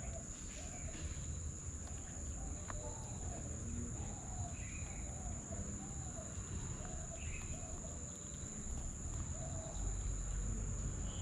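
Birds calling in a string of short, low, repeated notes about twice a second, with a few higher chirps, over a steady high-pitched insect drone and a low rumble.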